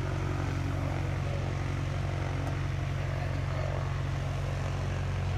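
An engine running steadily, a low unchanging drone.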